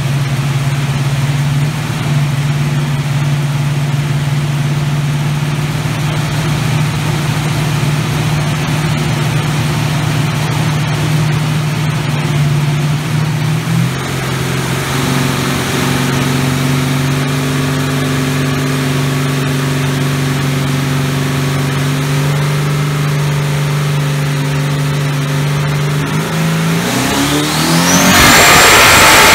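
Twin-turbo 427 LSX V8 of a VH Commodore strapped to a hub dyno, running steadily at low revs. About two seconds from the end the revs climb quickly and it gets much louder as a full-throttle dyno pull begins.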